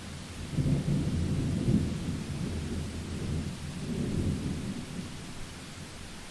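Rolling thunder rumbling over steady rain: a deep rumble builds about half a second in, swells twice, then fades near the end.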